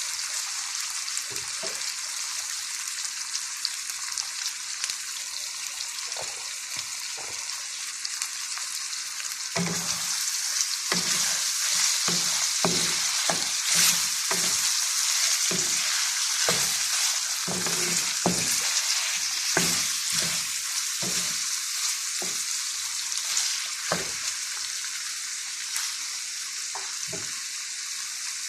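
Chicken pieces sautéing in hot oil in a pan, with a steady sizzle. From about a third of the way in, a utensil stirs them, with frequent short scrapes and knocks against the pan.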